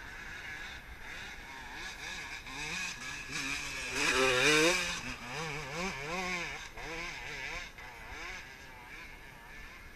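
Motocross dirt bike engine revving up and down repeatedly, growing louder to a peak about four seconds in, then fading away.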